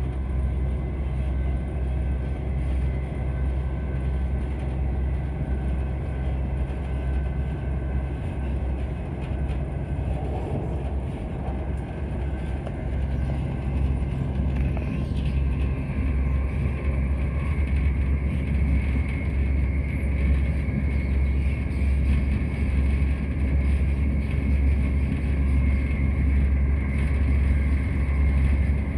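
Class 170 Turbostar diesel multiple unit under way, heard from inside the carriage: a steady low drone of the underfloor diesel engine with wheel and track rumble. About halfway through a steady high whine comes in and holds, and the running grows a little louder.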